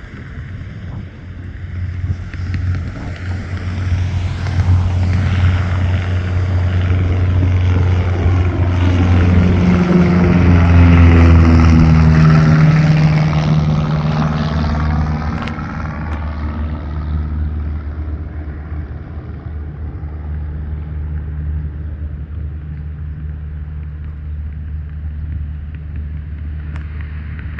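Propeller airplane engine passing by, growing louder to a peak about eleven seconds in, its pitch dropping as it goes past, then fading to a steady drone.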